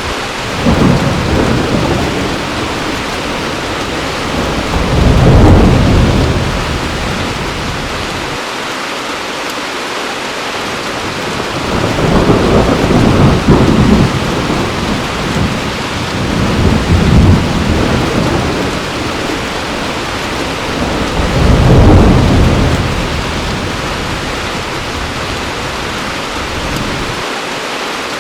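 Heavy rain falling steadily, with thunder rumbling about five times, each roll swelling and fading over a few seconds.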